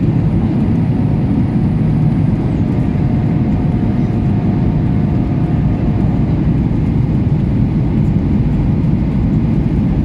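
Airliner cabin noise on approach to landing, a steady low rush of engines and airflow, with a faint thin whine in the middle.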